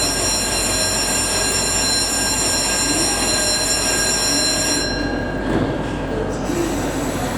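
E231-series commuter train departing a station platform: a steady high-pitched multi-tone sound over the train's rumble stops about five seconds in, and a new high tone begins near the end as the train gets under way.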